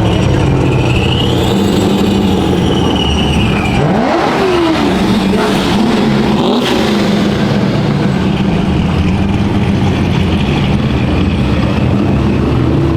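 Vehicle engine running loudly and steadily, with a quick rev up and back down about four seconds in.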